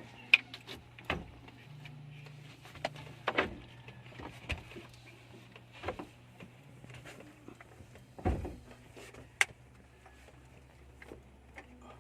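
Scattered clicks and knocks of a new car battery and its fittings being handled and pressed into place, with one heavier thump about eight seconds in, over a faint steady low hum.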